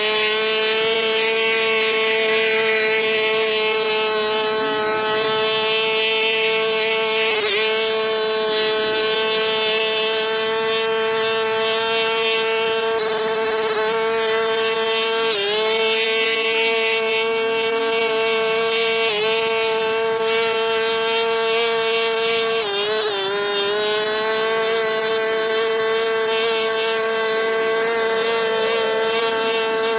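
Small engine-driven cleaning machine running steadily at a high, fixed pitch. Its pitch sags briefly four times, as if the engine is taking on load, and recovers each time.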